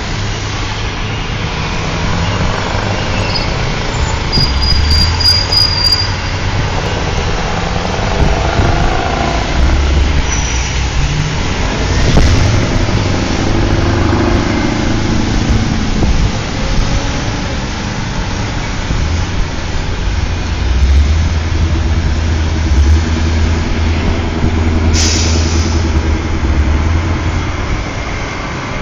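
Scania truck's diesel engine running steadily under load, with a brief high squeal a few seconds in and a short hiss near the end.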